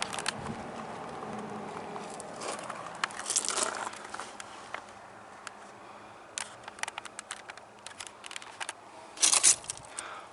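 Scattered clicks, rustles and scuffs of close handling noise, with a louder scuff about nine seconds in.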